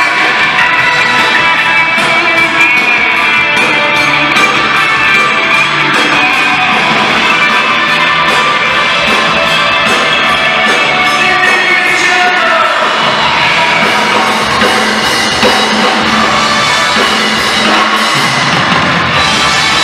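Live rock band playing an instrumental break in a pop-rock song, with no vocals sung. The bass and drums come in much fuller near the end.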